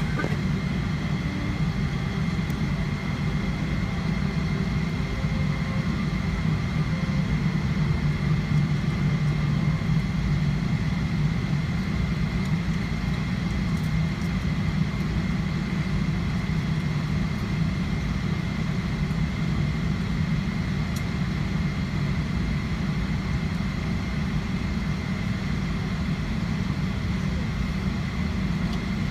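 Jet airliner taxiing into its gate with its engines at idle: a steady low rumble with a thin, steady high whine above it.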